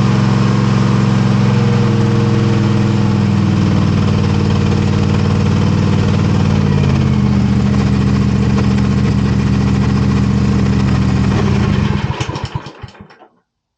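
Toro TimeCutter zero-turn mower's engine running steadily on fresh oil, with no stutter, then switched off about twelve seconds in, its firing slowing and dying away within about a second.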